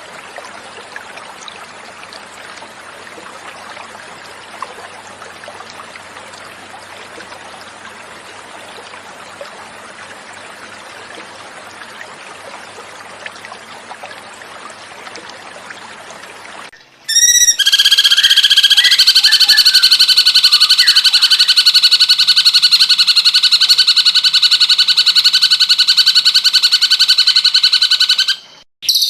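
Flowing water trickles steadily for most of the first half. Then a cucak cungkok's song starts suddenly, much louder: a very fast, buzzy rattle held at an even pitch for about eleven seconds before it cuts off.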